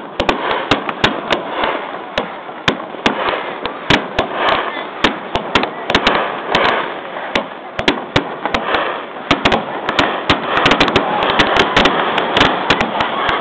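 Fireworks bursting in quick succession: a dense run of sharp cracks over continuous crackling, heard through a mobile phone's microphone.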